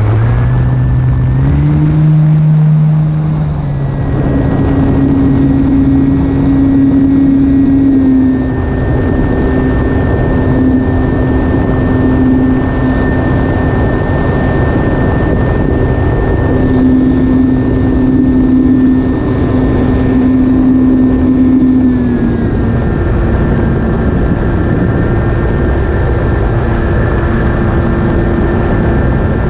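E-flite Carbon-Z Cub SS radio-controlled plane in flight: its electric motor and propeller run with a steady whine that steps up in pitch twice in the first few seconds, then drops back twice, about a third of the way in and again near the end, over a steady rushing noise.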